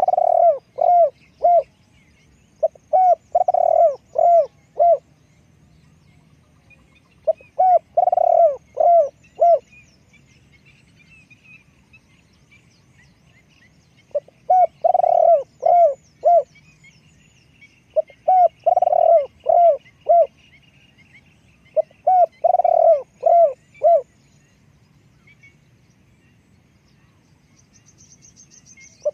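Spotted dove cooing: about six phrases of several quick coo notes each, separated by pauses of a few seconds. Other small birds chirp and trill faintly in the background.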